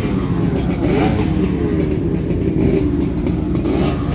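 Motorcycle engines running, their revs rising and falling.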